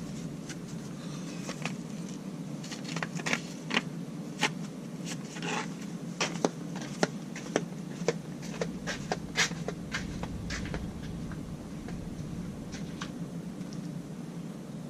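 Irregular light clicks and knocks, like objects being handled and set down, over a steady low hum; the clicks thin out about ten seconds in.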